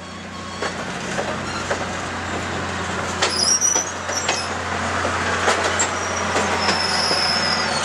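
Slow-moving train rolling past with a steady rumble and scattered clicks and clanks, and a high-pitched wheel squeal about three seconds in and again near the end.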